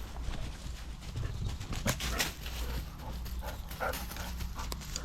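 Dogs moving about close by: scattered footfalls and knocks, with a few brief dog noises in the second half, over a low rumble.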